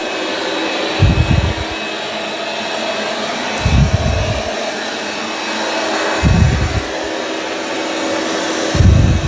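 Dreame X30 Ultra robot vacuum running steadily on carpet with its suction boosted for carpet, a constant hum under the airflow noise. Short low thuds come about every two and a half seconds.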